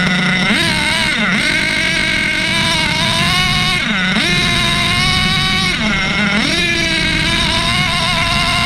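HPI Savage X4.6 nitro RC truck's small two-stroke glow engine revving up and down as the truck is driven, its pitch rising and dipping several times. The engine is still in break-in, running rich at moderate throttle.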